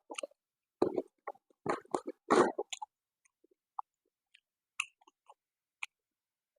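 Close-up chewing and mouth sounds of a person eating: a quick run of wet smacks and bites in the first few seconds, then a few faint clicks.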